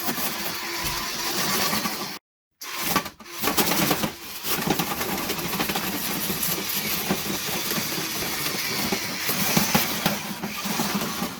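Power drill running, spinning a rotary dryer-vent cleaning brush on flexible rods as it is fed into a dryer duct, with the rods and brush rattling and scraping inside the duct. The sound cuts out for about half a second a little after two seconds in.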